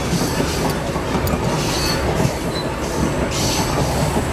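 Moving passenger train heard from inside the compartment: a steady rumble of wheels on the track, with a couple of brief high wheel squeals about two seconds in.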